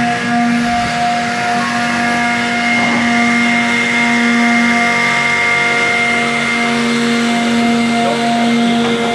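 Chevrolet Cruze TC1 touring car's engine running at a steady idle, a constant hum with a high whine over it.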